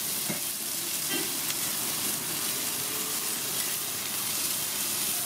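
Sliced onions sizzling steadily in hot oil on a large flat griddle, stirred with a metal spatula toward the end.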